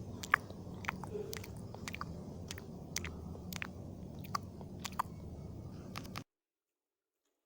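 Close-miked chewing of spicy instant fried noodles, with scattered sharp clicks. The sound cuts out to dead silence about six seconds in.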